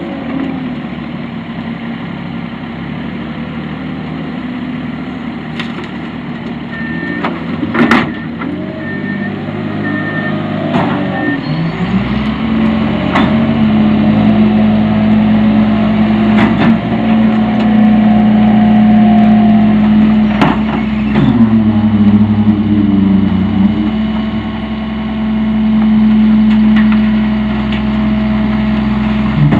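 Freightliner FL80 rear-loader garbage truck's diesel engine running at idle, then about twelve seconds in it revs up and holds a steady higher speed until it drops back near the end. Several sharp bangs and knocks sound over it, the loudest about eight seconds in.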